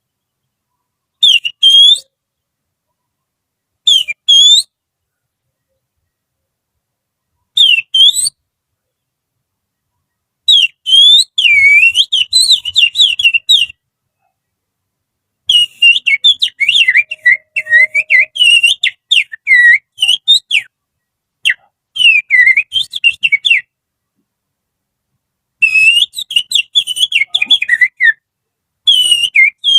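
Finger whistling, blown over the little finger, imitating the song of an Oriental magpie-robin (kacer). It opens with three short, high whistled phrases a few seconds apart, then goes into longer runs of quick, warbling notes that glide up and down, with short pauses between the runs.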